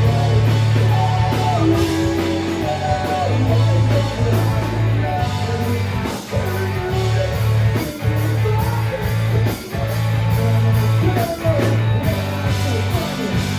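Live rock band playing: guitar melody lines over a steady bass line and drums.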